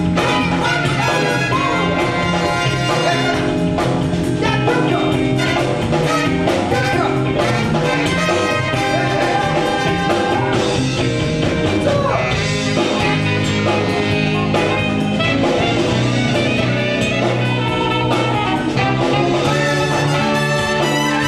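Live band music played loud and steady, with brass horns and a regular drum beat.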